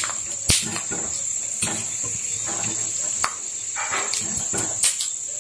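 Peanuts frying in oil in a kadhai on a low flame, stirred with a wire-mesh skimmer that knocks against the pan in about five sharp clicks, with a steady high-pitched tone behind.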